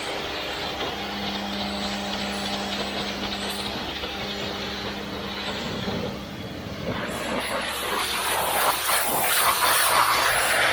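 Sunjoe electric pressure washer running with a steady motor-and-pump hum under the hiss of its 15-degree fan spray. About seven seconds in the spray grows louder and rougher as the jet works the stained deck.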